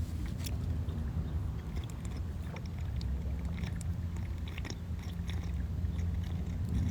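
Someone chewing food quietly close to the microphone, soft scattered clicks over a steady low rumble.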